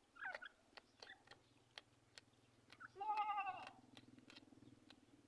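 A single loud wavering animal call about three seconds in, lasting under a second. Faint short chirps and scattered sharp clicks come before it.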